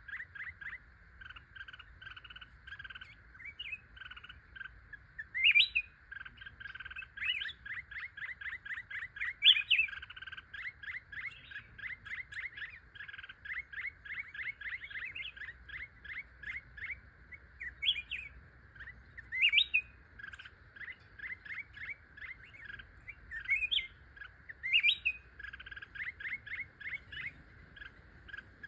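Birds chirping: long runs of short, quick chirps, about six a second, broken by a few louder rising calls.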